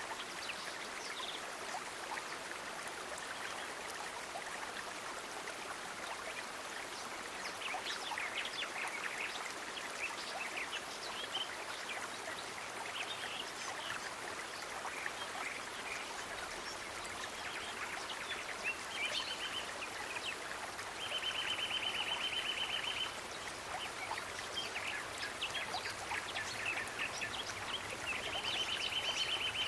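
Nature ambience: a steady stream of running water with scattered small animal chirps, and two rapid trills of about two seconds each, one a little past the middle and one near the end.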